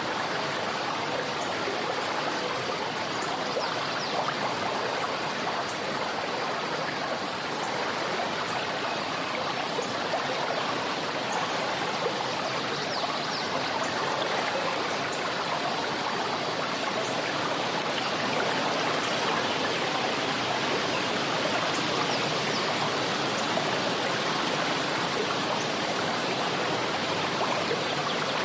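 A forest river or stream rushing and splashing in a steady, even flow.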